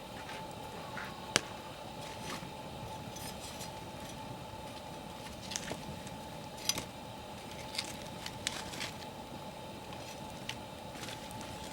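Wood campfire crackling, with irregular sharp pops and snaps over a steady low hiss; the loudest pop comes about a second and a half in, and a cluster of smaller snaps follows in the middle.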